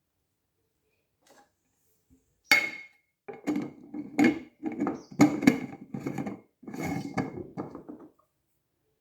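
Kitchen dishes and utensils clattering. A sharp knock with a short ringing note comes about two and a half seconds in, then a quick run of knocks and scrapes for about five seconds.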